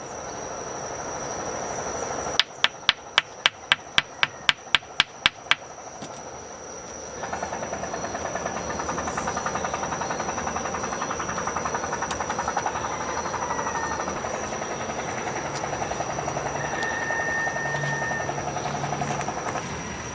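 A quick run of about a dozen hammer blows, three or four a second, then a few seconds later a steady fast scraping that goes on to the end, over a thin high whine.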